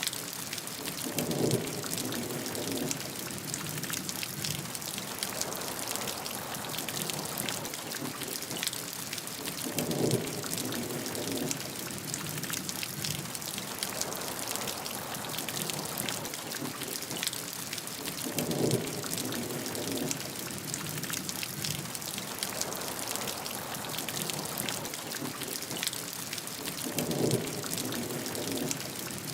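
Steady heavy rain with many individual drops pattering on a surface. A brief lower swell, likely faint thunder, comes back four times, about every eight to nine seconds.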